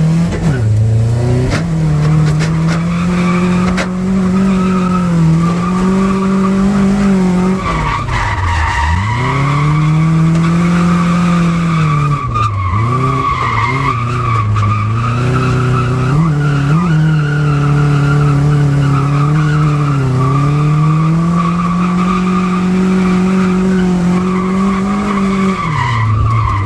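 Drift car's engine held at high revs through long slides, with tyres squealing steadily over it. The revs drop sharply and climb back about eight and twelve seconds in, briefly again around seventeen seconds, and once more near the end.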